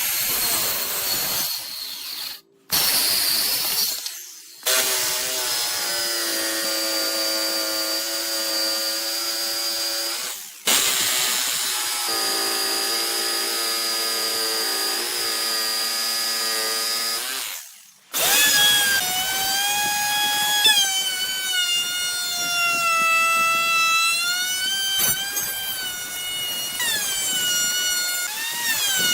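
Electric power tool motor running in several runs, stopping and restarting a few times. Its whine holds a steady pitch through the middle runs and wavers up and down from about eighteen seconds in, as the load on it changes.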